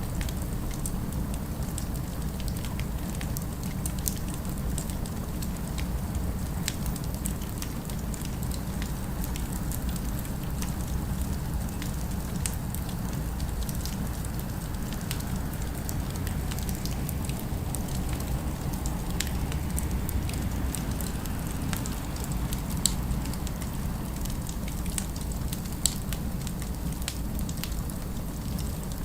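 Wood fire crackling: scattered small pops and snaps over a steady low rumble of city ambience, with two louder pops near the end.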